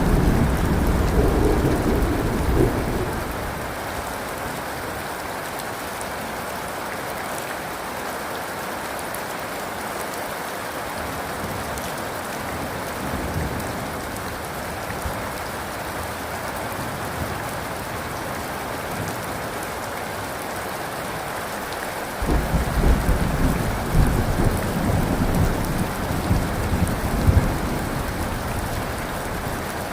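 Steady heavy rain with thunder: a rumble dying away in the first few seconds, then a new roll of thunder starting suddenly about two-thirds of the way through and rumbling in several swells.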